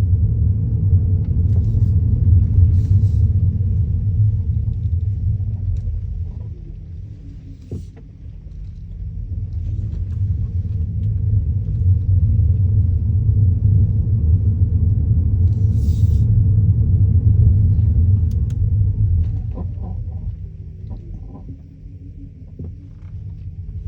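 Kia Niro driving, a steady low road-and-tyre rumble that fades twice as the car slows. A few faint knocks and rattles come near the slow points: the clunking over speed bumps that Kia dealers have not traced.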